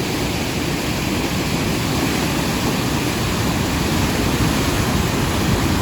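Steady rush of a river running high and fast in flood after heavy rain.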